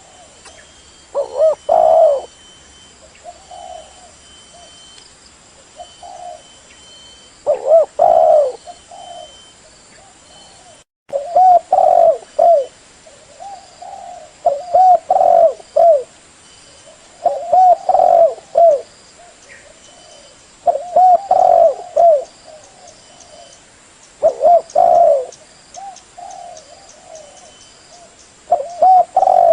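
Spotted dove (tekukur) cooing: short phrases of low hooting coos, repeated every three to four seconds.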